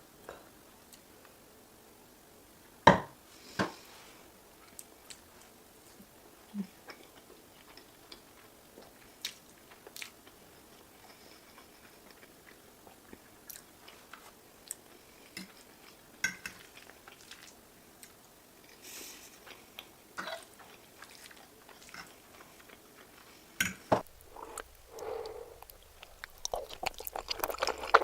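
Close-miked eating sounds: chewing and wet mouth clicks, with a few sharp louder clicks. Near the end they turn into a dense run of quick clicks as the chewing picks up.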